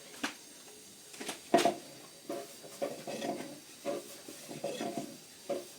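Knocks and clatter of cooking utensils during bread-making, the loudest sharp knock about a second and a half in.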